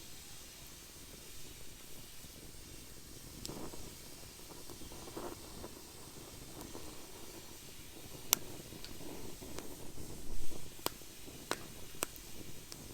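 Wood fire burning in a fire pit: a low steady hiss with sharp crackling pops scattered through it, more of them in the second half.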